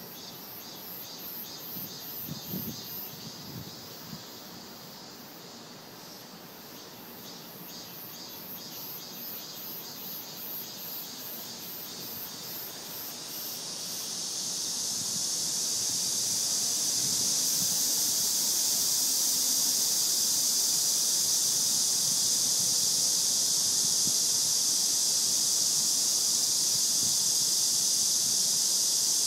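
Cicadas singing in summer trees. For the first half it is a rhythmic pulsing call, about two pulses a second. Then, about halfway through, a loud steady high buzzing drone swells in and holds.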